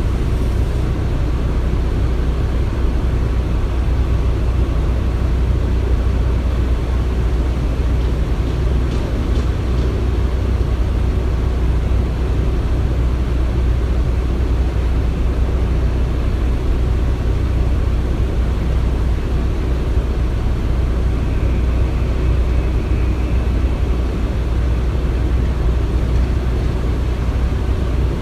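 Construction site ambience: a steady, loud low rumble of machinery running, with an even noisy wash above it and a faint high tone for a few seconds about three-quarters of the way through.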